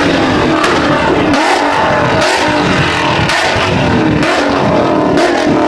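Car engine revving loudly and repeatedly, its pitch rising and falling.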